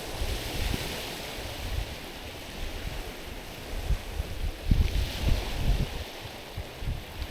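Small waves washing in over stones on a rocky shore, the hiss of the water swelling about a second in and again about five seconds in. Wind buffets the microphone throughout with low, uneven rumbles.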